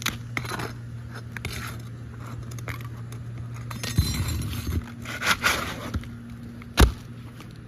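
Brittle asphalt roof shingles scraping and crackling as they are lifted and worked with a pry bar, with a sharp knock near the end. A steady low hum runs underneath.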